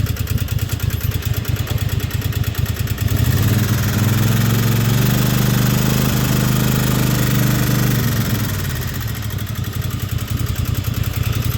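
Riding lawnmower engine running, revved up about three seconds in, held at higher speed for about five seconds, then dropped back to idle.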